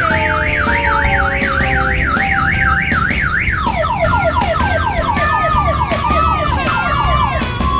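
Electronic siren sound effect from an odong-odong kiddie ride's loudspeaker: a fast up-and-down wail of about three cycles a second, changing about halfway to quick falling sweeps about four a second, over musical notes and a steady low hum.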